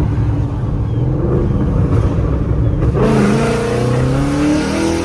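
Car engine rumbling low, then about three seconds in opening up under hard acceleration, its pitch rising steadily as it revs.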